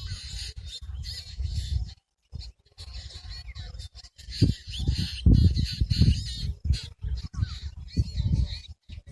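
Several birds calling, a mix of quick chirps and warbling notes, over a loud low rumble that comes and goes. The sound drops out briefly about two seconds in, again near four seconds, and just before the end.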